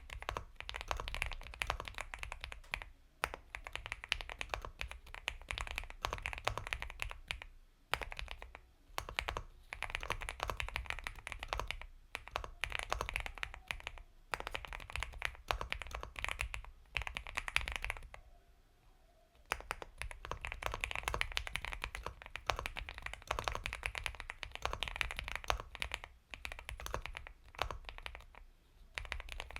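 Typing on an Epomaker x Feker Galaxy 80 mechanical keyboard with Gateron Milky Yellow Pro switches: dense runs of soft, creamy keystrokes, with a brief pause a little past halfway.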